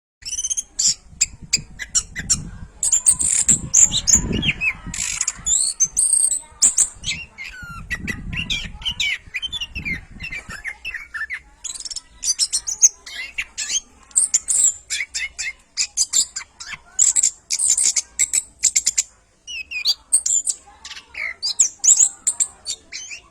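Orange-headed thrush (anis kembang) singing a fast, continuous, varied song of chirps, clicks and whistled notes, with short pauses.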